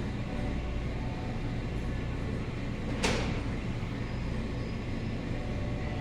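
Steady low vehicle rumble, with a single sharp knock about three seconds in.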